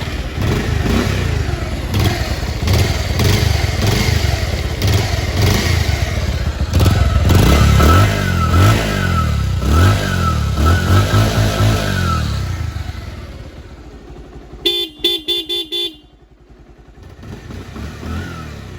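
Bajaj Pulsar 150's single-cylinder engine running and being revved again and again, its pitch rising and falling, then easing back to idle about 13 s in; the sound is very smooth. Near 15 s the horn gives about five quick short toots.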